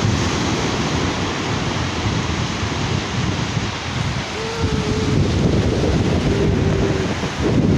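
Sea surf washing on a beach, with wind buffeting the microphone. A few short, faint held tones come through about halfway in and again near the end.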